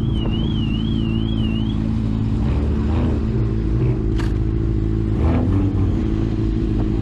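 Car engine running steadily at a constant pitch while driving. A high warbling electronic tone sounds over it for about the first two seconds.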